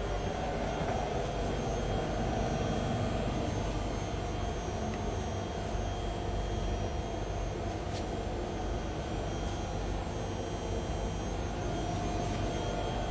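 Steady drone and rumble inside a German double-decker regional train carriage, with a few faint clicks.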